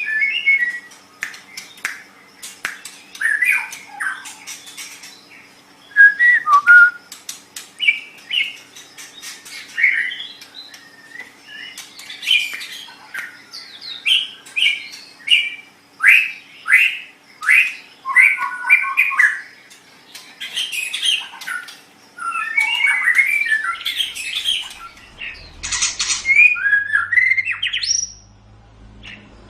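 White-rumped shama (murai batu) singing a long, varied song: quick whistled phrases, rattling trills and sharp clicking notes following one after another with short pauses.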